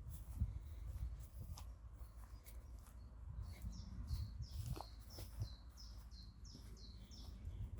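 A songbird singing a quick run of about ten short, high, downward-slurred notes starting a few seconds in, over a low outdoor rumble with soft irregular thumps.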